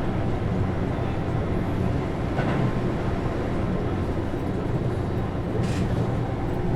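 Steady low rumble of a moving commuter train, heard from inside the carriage, with two brief faint hisses partway through.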